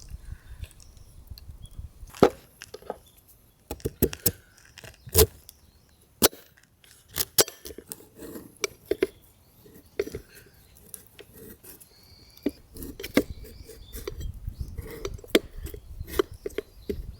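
Irregular sharp knocks, clicks and clinks of things being handled, some sounding like wood and some like light metal or dishware, about a dozen distinct strikes spread unevenly, over a soft low rumble.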